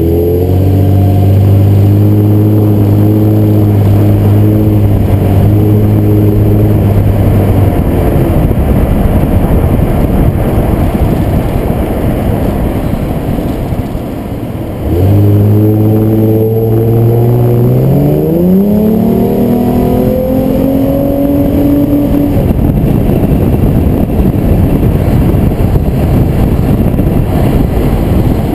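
2007 Nissan Maxima's V6 engine pulling at a steady pitch, fading out about eight seconds in to leave road and wind noise. About fifteen seconds in it accelerates again, its pitch rising, then gives way to road noise. No high-pitched brake squeal is heard.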